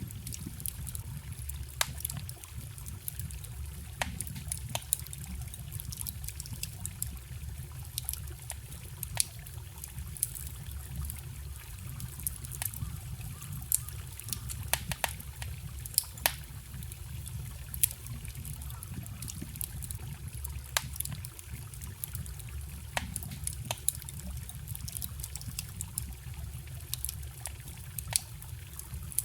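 Wood bonfire crackling, with sharp, irregular pops and snaps, over the steady trickle and rush of a forest stream.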